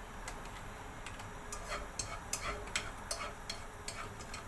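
Garlic frying in hot oil: a low sizzle with irregular sharp crackles and pops, several a second.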